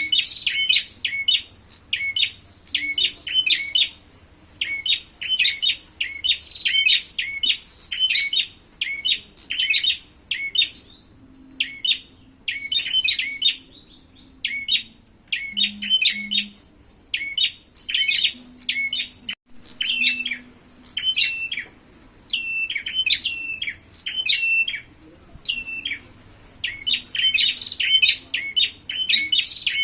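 Prinias (prenjak) giving rapid, sharp chirping calls in quick clusters, over and over with only brief pauses: the agitated calling of prenjak birds in a fight.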